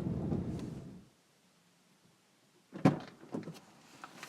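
A low, steady rumble fades away in the first second. After a short silence comes one sharp knock, followed by a few lighter clicks and rattles.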